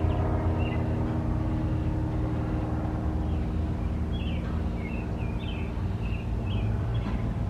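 CSX diesel-electric freight locomotive running with a steady drone, birds chirping over it through the second half.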